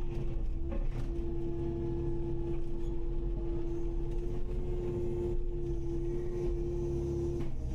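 Kubota KX080-5 excavator running: a steady engine rumble with a constant whine over it, which dips briefly near the end.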